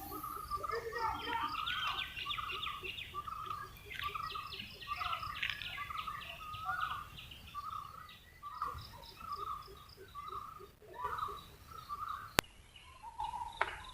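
Several birds calling and chirping at once, repeated short notes with quicker higher chirps over them, above low steady background noise. A single sharp click near the end.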